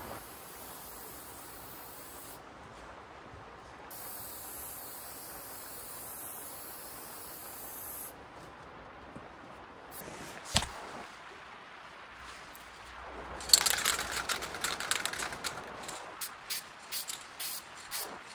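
Aerosol spray can applying wood finish: one sharp knock about ten seconds in, then a longer hissing spray, followed by a run of short quick bursts.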